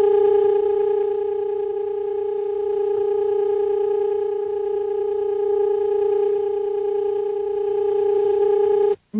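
A steady, electronic-sounding hum held at one pitch with a row of overtones, unchanging until it cuts off suddenly near the end.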